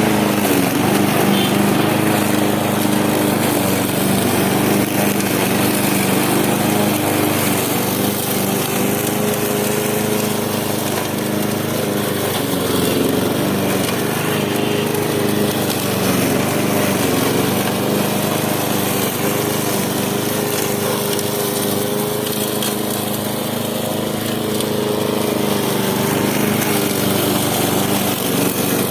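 Lawnmower's small engine running steadily while cutting grass, its pitch wavering slightly.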